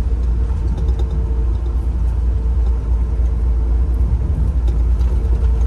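Tractor-trailer's diesel engine running with a steady low rumble and a faint steady hum above it.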